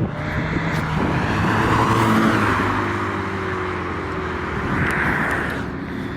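Cars driving past at low speed, their engines running steadily, with the noise of a passing car swelling up about two seconds in and again about five seconds in.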